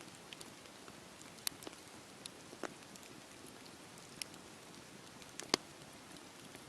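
Wood fire crackling in a fireplace: a soft steady hiss with scattered sharp pops and snaps, the loudest about five and a half seconds in.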